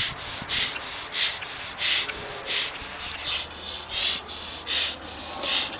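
A person breathing hard and rhythmically, about one and a half forceful breaths a second, blowing up a rubber glove pulled over the head.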